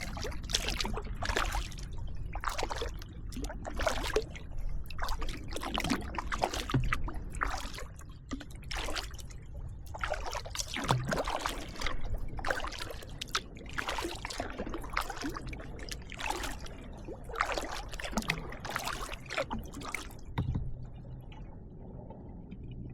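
Kayak paddle strokes: the blades dip and splash, and water drips off them, in a steady rhythm of a little over one stroke a second. The strokes stop near the end.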